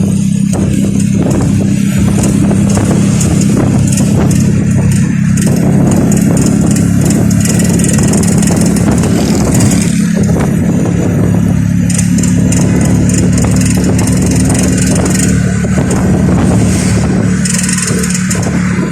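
Motor vehicle running steadily: a constant low engine drone with noise over it.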